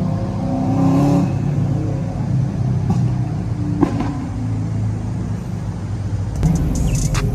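BMW E92 M3's V8 running at idle: a steady low engine rumble that swells briefly about a second in.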